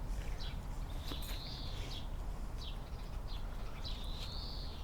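Small songbirds singing: quick high chirps about twice a second, with a longer drawn whistled note about a second in and again near the end, over a low rumble.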